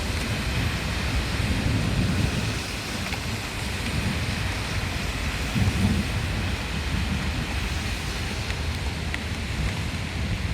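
Heavy rain pouring steadily while low thunder rolls and swells in the background, with a few sharp drop ticks.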